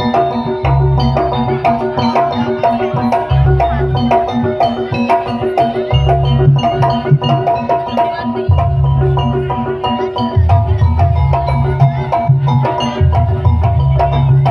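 Javanese jaranan accompaniment music: drums and mallet percussion play a fast, repeating pattern, with deep drum strokes coming in and out in blocks.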